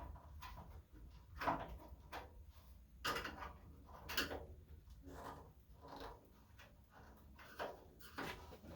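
Screwdriver prying a clipped-on bonnet emblem off a car's front panel: a series of irregular small clicks, knocks and scrapes.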